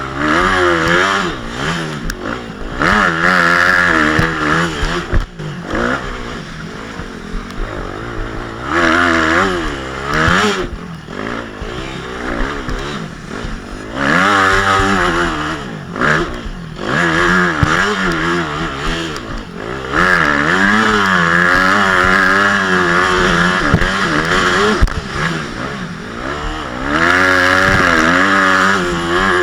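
Motocross bike engine being ridden hard, revving up and falling back over and over as the throttle opens and closes, with several louder stretches at full throttle and a few sharp knocks.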